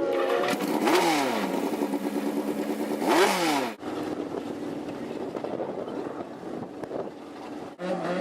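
Drag-racing motorcycle engine being revved: its pitch climbs, holds steady at high revs for about two seconds, climbs again and then drops quickly, twice. Abrupt cuts split the sound into separate short stretches of engine noise.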